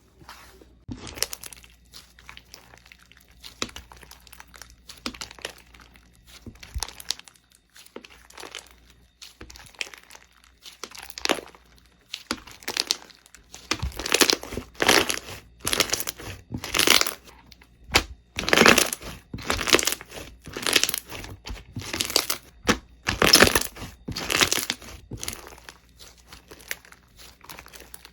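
Slime being squeezed and pressed by hand: a series of short squishes, sparse at first, then a louder run of about one a second through the middle and later part.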